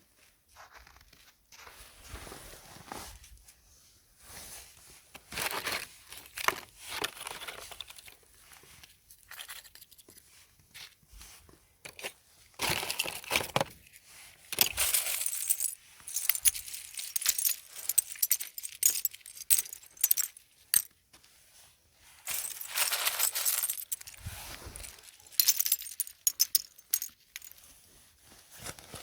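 Irregular handling sounds: bursts of rustling dense with sharp clicks and taps, each lasting a second or a few seconds with quiet gaps between. The longest bursts come in the middle and again near the end.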